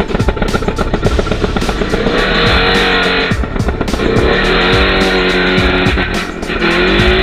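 Small off-road engine, a kids' quad or dirt bike, revving up and down repeatedly while it rides in the mud, with music playing underneath.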